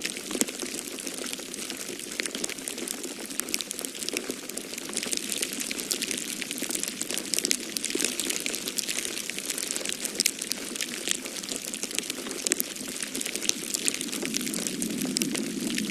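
Wood fire crackling in a fireplace, with many small irregular pops and snaps, over a steady rushing of storm wind.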